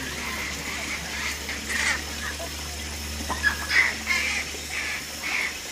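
Short, high squeaky animal calls repeated a few times a second over a steady trickle of running water.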